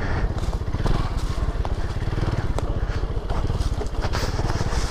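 Lifan KP Mini 150 pit bike's small single-cylinder engine running steadily at low revs, a fast even pulsing putter.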